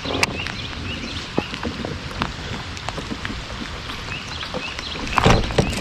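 Rain falling steadily, a continuous hiss with many scattered drops tapping. A louder, brief rush of noise comes about five seconds in.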